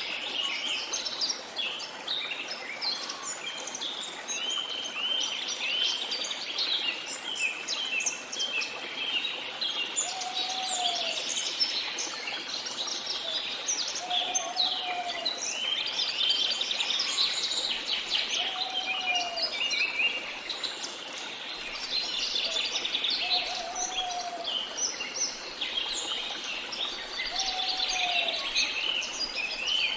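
A dense chorus of many birds chirping and singing at once, with short high calls overlapping throughout. From about ten seconds in, a lower, short call repeats about every four seconds beneath the chorus.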